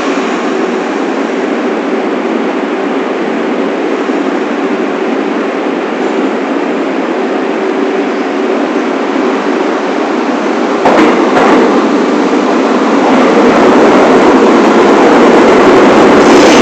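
New York City subway train running on the rails, a steady noise that gets louder about eleven seconds in, with a few sharp clacks at that moment.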